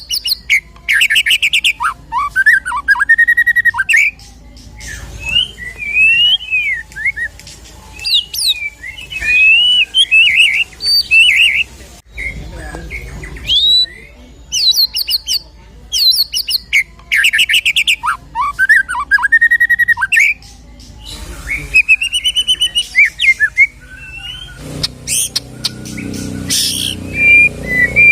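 White-rumped shama (murai batu) singing a loud, varied song full of mimicked 'isian' fills: rapid rattling trills, sliding whistles and sharp chirps in quick succession, the same run of phrases coming round again about halfway through. A low rumbling background comes in near the end.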